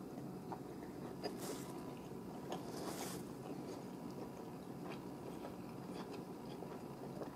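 A person biting into and chewing a soft English muffin breakfast sandwich with chicken sausage, egg white and cheese, quietly, with small clicks and two brief sharper noises about a second and a half and three seconds in.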